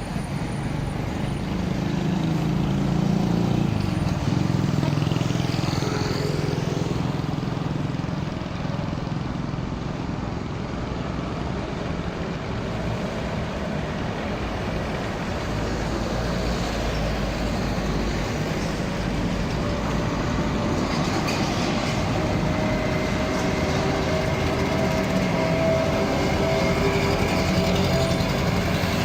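Road traffic with trucks going by: a continuous low engine rumble, one vehicle passing about six seconds in, and a steady whine rising in the second half.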